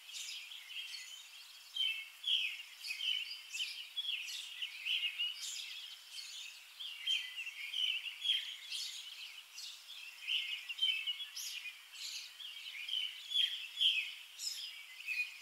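Small birds chirping: many short, high calls in an irregular stream, some with quick upward flicks.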